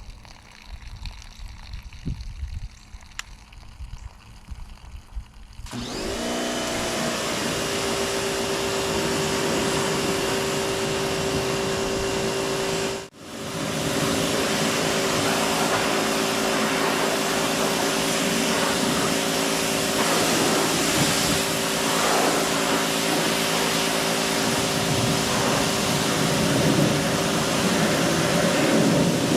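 Water trickling and splashing at first, then a pressure washer starts up about six seconds in and runs steadily with the hiss of its spray. It cuts out for a split second partway through and picks straight back up.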